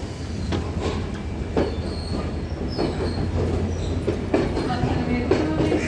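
A passenger train running on its rails with a steady low rumble. The wheels knock over rail joints a few times at uneven intervals, and there are faint high wheel squeals.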